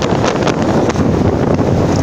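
Loud, steady wind buffeting the microphone of a moving motorbike, with road noise mixed in.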